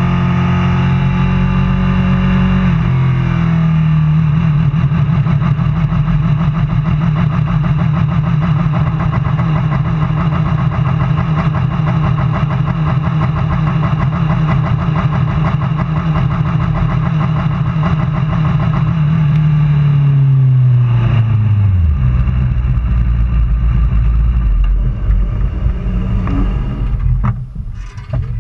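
Superbike engine running at a steady high pitch, with a shift in pitch about three seconds in. About two-thirds of the way through, the revs fall away over a few seconds to a low rumble, and a few knocks and wind noise follow near the end.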